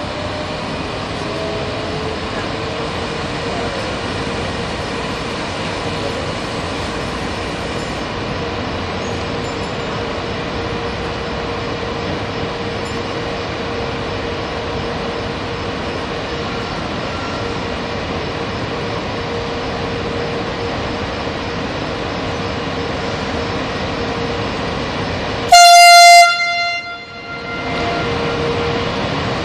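Electric locomotive of a freight train setting off slowly, with a steady running hum and a whining tone that rises a little in the first few seconds. About 26 s in comes one short, very loud horn blast that dies away over a second or two.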